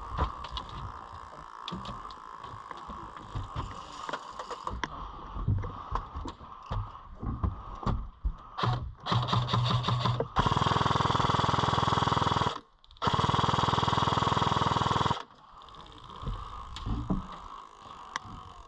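Airsoft gun firing on full auto in two long bursts of about two seconds each, separated by a brief pause, about two-thirds of the way in. Before them, scattered clicks and rustling.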